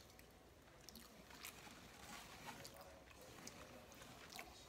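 Faint chewing of a mouthful of burger, with soft wet mouth clicks scattered through it.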